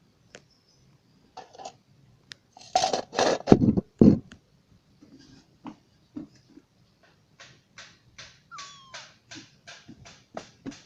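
A kitten's sounds up close: a few loud rustling knocks about three seconds in, then a run of short clicks about three a second, with one short downward-sliding mew in the middle of them.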